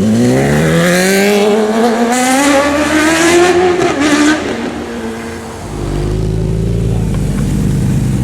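Sport motorcycle accelerating hard, its engine note climbing steadily for about four seconds and then dropping away. From about six seconds a lower, steady engine rumble of a vehicle running nearby takes over.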